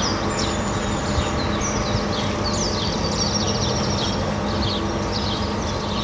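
A songbird singing runs of short, high, falling chirps over a steady rushing background noise.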